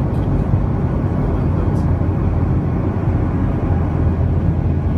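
Airliner cabin noise in flight: the steady low rumble of the engines and the airflow past the fuselage, heard from inside the cabin.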